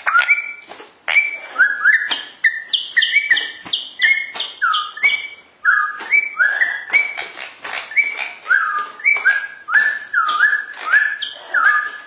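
Caged bird giving a steady series of short whistled calls, about two a second, many of the notes sliding down in pitch.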